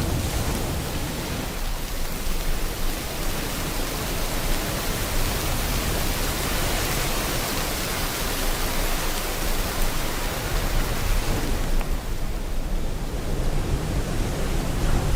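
Steady heavy rain, a dense even hiss, with ocean surf rumbling underneath. About twelve seconds in the hiss thins and the low rush of the waves comes forward.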